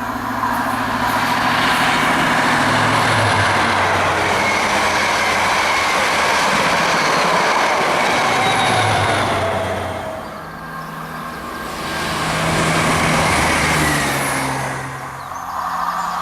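A train passing close by at speed: a loud, steady rush of wheels on rail with a low engine hum underneath, dipping briefly twice near the end.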